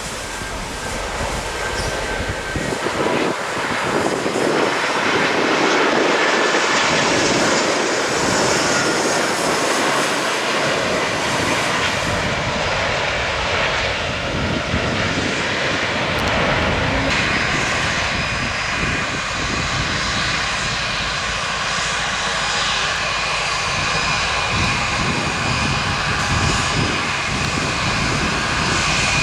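Aircraft engines running, a loud steady rush with high whining tones, swelling over the first few seconds and then holding.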